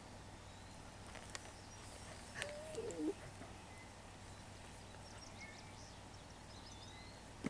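Quiet outdoor background with a short, wavering low animal call about two and a half seconds in, a few soft clicks, and faint high bird chirps later on.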